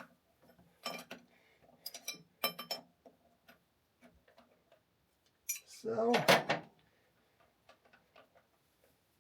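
Hand tools and small metal parts clinking and tapping, with a few sharp clinks in the first three seconds and then scattered light ticks.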